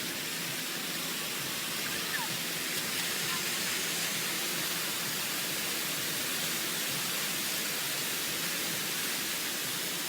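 Steady hiss of water jets spraying.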